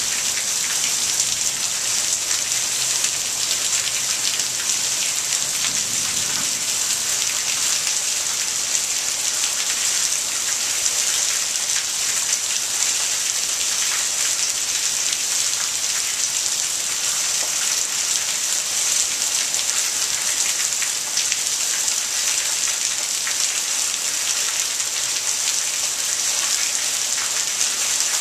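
Heavy monsoon downpour: rain falling hard and steadily, an even hiss with no let-up.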